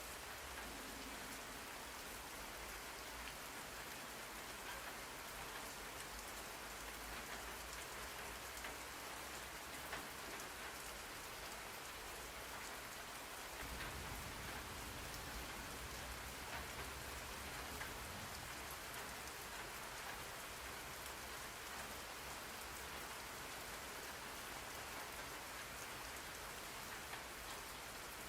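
Steady rain falling, an even hiss with scattered drop ticks; a low rumble underneath grows stronger about halfway through.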